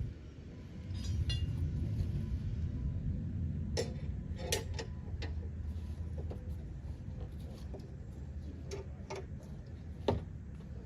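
Scattered light metallic clinks and taps, a quick run of small ticks about a second in and single sharper clinks now and then, over a steady low hum.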